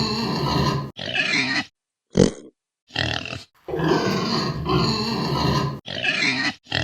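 Domestic pig oinking and grunting in a string of short bursts with brief gaps between them, the same run of calls heard twice.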